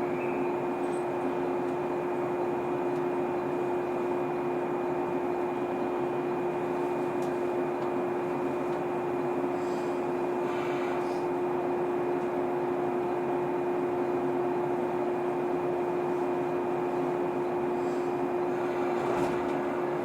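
JR 115-series electric train car standing at a station, heard from inside: a steady hum of its auxiliary machinery, one strong low tone with fainter higher ones, holding the same pitch throughout.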